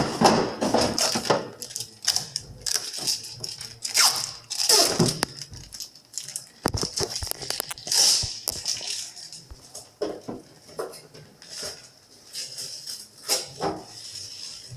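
Shipping tape being peeled off a new refrigerator's interior, with irregular tearing, rustling and clattering of the plastic shelves and bins being handled.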